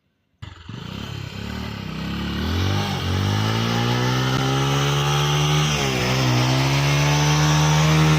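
Motorcycle engine pulling away and accelerating, its pitch rising over the first couple of seconds, then running steadily at high revs with a brief dip in revs about six seconds in.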